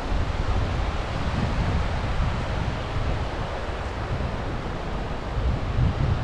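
Sea surf washing on the shore, mixed with wind buffeting the microphone as a steady low rumble.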